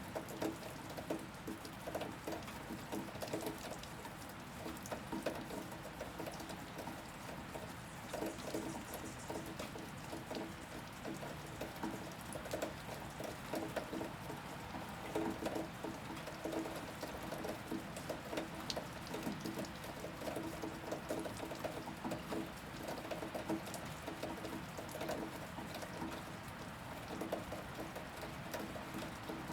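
Steady rain, with many separate drops striking a surface at an irregular pace.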